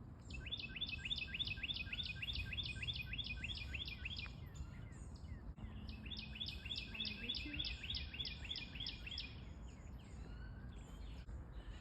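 A songbird singing two phrases, each a fast run of about fifteen repeated slurred notes lasting three to four seconds, with a pause of about two seconds between them. A low steady rumble sits underneath.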